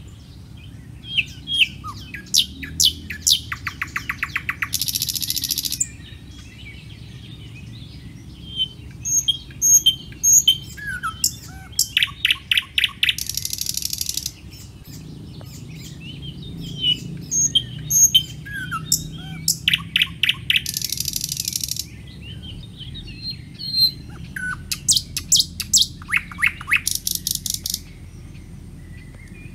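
Birds chirping and trilling: groups of short sharp chirps and quick runs of repeated notes, coming back about every eight seconds.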